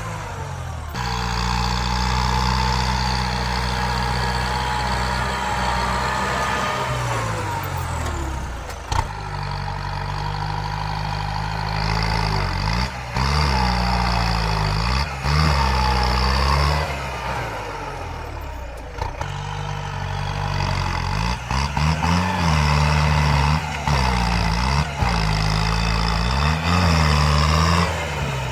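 Tractor engine running under varying load, its pitch dipping and recovering again and again, every second or two in the second half.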